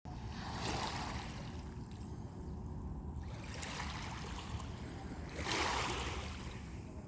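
Small sea waves washing onto a beach: three surges of hiss a couple of seconds apart, over a steady low rumble.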